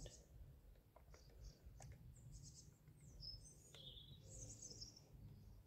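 Faint chirping of small songbirds in a nearby tree, several short high-pitched phrases, over a low steady background rumble.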